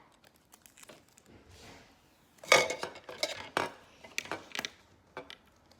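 Tin can being handled on a tabletop: a run of irregular metallic clinks and knocks, loudest about two and a half seconds in.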